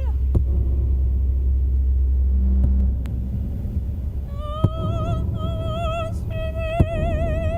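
Live experimental electronic music: a deep low drone with a few sharp clicks drops away about three seconds in. About a second later, a high held note sung by a woman with wide vibrato comes in, in long phrases with brief breaks.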